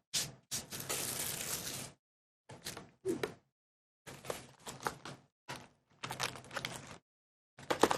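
Plastic shrink wrap being torn and peeled off a sealed trading-card booster box: crinkling and ripping in short bursts, with one longer tear from about half a second to two seconds in.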